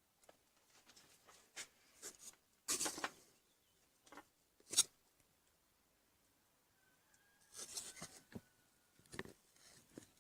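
Irregular handling noises of hands working with tools and parts: scattered scrapes, rustles and clicks, the longest scrape about three seconds in and a sharp click near five seconds.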